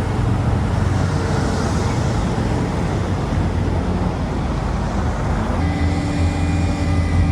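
Motor vehicle engine running amid road traffic noise; about five and a half seconds in, a steady engine note with a clear, even pitch takes over.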